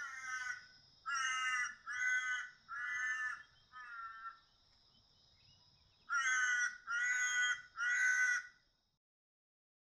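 Australian raven calling: a bout of five caws whose last note trails off, then a pause and three more caws. The run of calls fits the species' typical call, in which the last note is drawn out.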